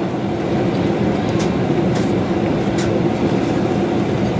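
Steady engine and airflow drone inside a Boeing 747-400 economy cabin during descent, with a constant low hum and a few faint ticks.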